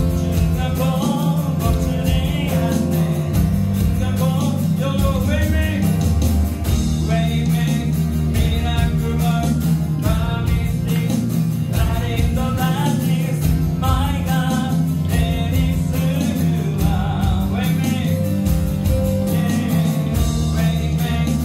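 Live worship band playing a song: sung vocals over acoustic guitar, keyboard and bass guitar, steady throughout.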